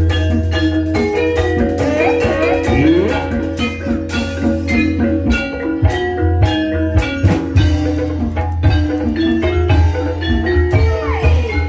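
Banyumasan gending ebeg accompaniment: mallet-struck keyed instruments playing a fast, dense pattern of notes over a steady, heavy low bass, with drums.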